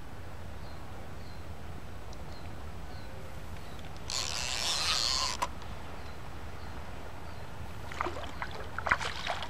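Steady low rush of fast river current around a pontoon boat. About four seconds in there is a hissing rush lasting over a second, and a few light clicks come near the end.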